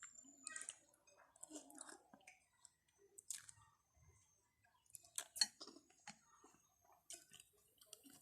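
Quiet close-up chewing of rice vermicelli noodles and stewed beef, with scattered small mouth clicks and smacks; the sharpest click comes about five seconds in.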